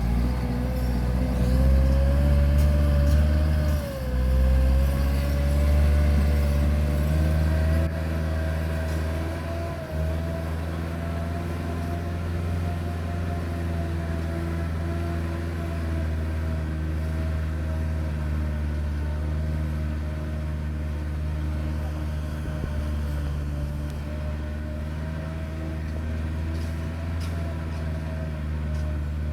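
Massey Ferguson 375 tractor's diesel engine running steadily, with a whining tone that rises a little over the first several seconds and then holds steady.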